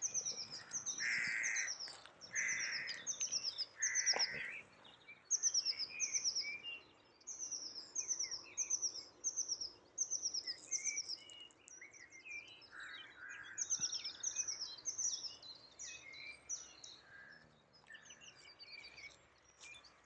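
Birds singing: one bird repeats a high, falling note about twice a second in long runs, with shorter calls from other birds mixed in.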